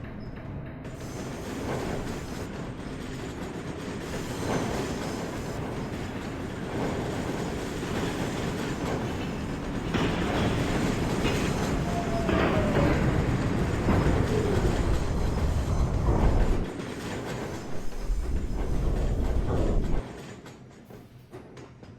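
New York City subway train running through the station, its wheels clacking over rail joints, growing steadily louder before the sound drops off suddenly near the end.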